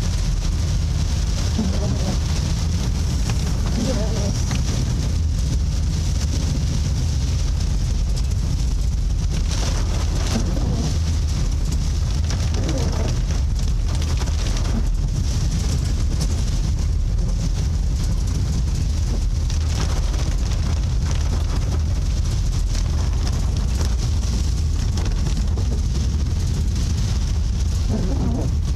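Steady low rumble of a vehicle under way through floodwater, with a constant hiss of water and wind above it.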